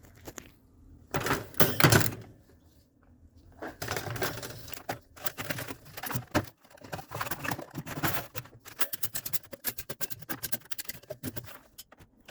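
Hand wire brush scrubbing a metal part in quick, rapid strokes, with a louder scrubbing burst about a second in, cleaning the surface before it is sealed with RTV.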